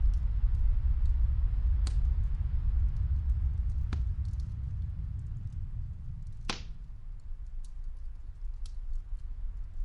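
Deep, steady rumble of snowstorm wind with a fireplace crackling, muffled as if from another room: scattered small clicks and three sharper pops about two, four and six and a half seconds in.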